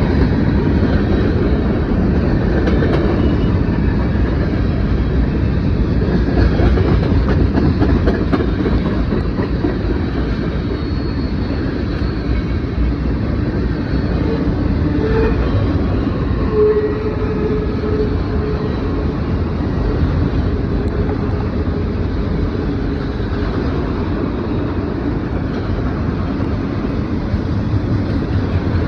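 Norfolk Southern mixed freight train rolling past: a steady rumble of freight cars and wheels clattering over the rails.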